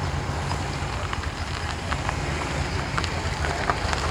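Car engine running at low revs with a deep, uneven rumble, with scattered light ticks and clicks over it.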